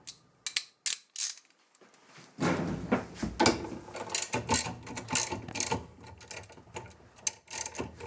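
Socket ratchet wrench clicking as it works the 7/16 bolt that holds a washing machine agitator, turned through an extension. A few separate metal clicks come first, then steady, fast ratcheting from about two and a half seconds in.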